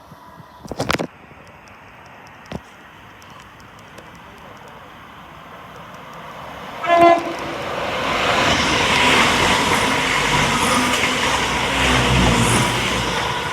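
A brief horn toot from an approaching train about seven seconds in, then the train running past: a loud rushing rail noise that builds and holds, with low rumble near the end. A couple of sharp knocks come earlier, the louder one about a second in.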